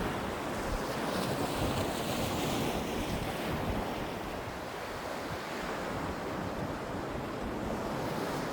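Sea waves breaking and washing on the shore in a steady rush, with wind buffeting the microphone.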